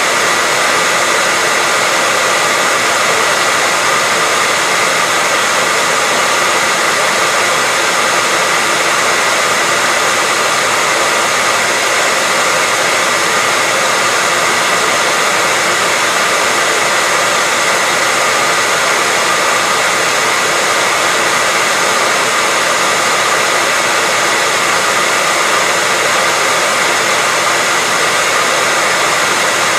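Hair dryer running steadily: an even rushing blow of air with a faint motor whine in it, no change in pitch or level.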